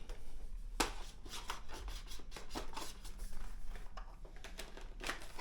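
Plastic parts of a cordless stick vacuum being handled and fitted together, with scattered sharp clicks over light rubbing and scraping.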